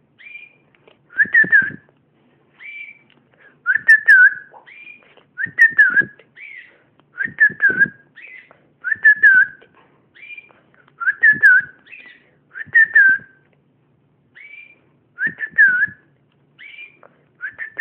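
Pet bird whistling the same short phrase over and over, about every two seconds: a brief higher note, then a louder whistle that dips and rises.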